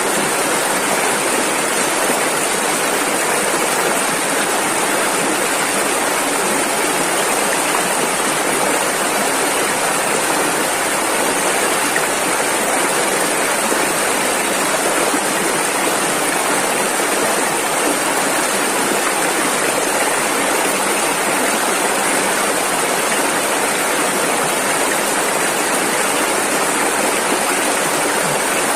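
A rushing river: fast water flowing over rapids in a steady, unbroken rush.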